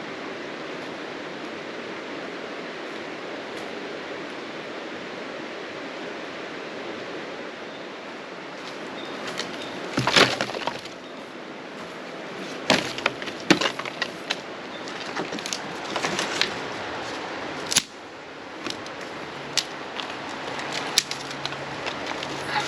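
Steady rushing of river water, then from about ten seconds in a run of sharp, irregular cracks and snaps over it.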